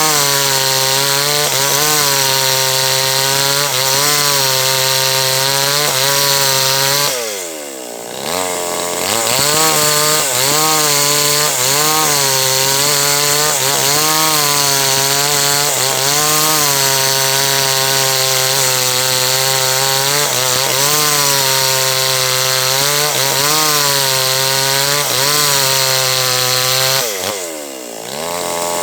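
H&L Pro 5800 two-stroke chainsaw running at high revs while cutting through a large teak log, its pitch wavering under the load of the cut. Twice, about seven seconds in and again near the end, the engine drops briefly toward idle and revs back up.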